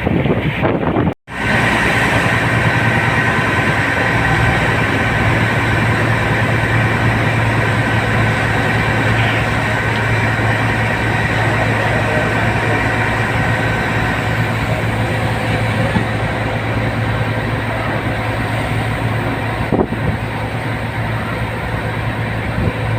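Ferry's engine running steadily, a loud low hum with a faint steady whine over it, heard on board. The sound drops out for an instant about a second in.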